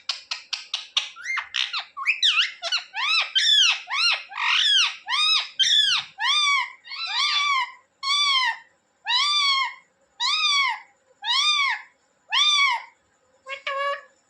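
Indian ringneck parrot calling: a rapid chatter of short calls, then a long series of loud screeches, each rising then falling in pitch, repeated about once a second. A quick double call comes near the end.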